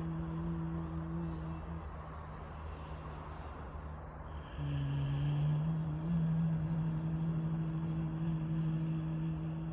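A person humming long, sustained low notes: one note fades about two seconds in, and a new held note starts about halfway through. Behind it, rapid high chirps of birds or insects repeat several times a second throughout.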